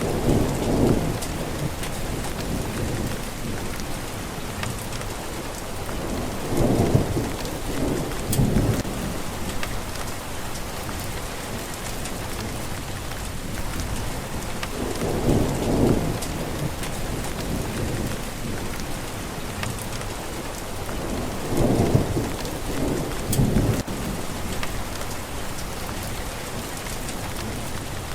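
Steady rain falling, with low rolls of thunder swelling up four times, each lasting a second or two.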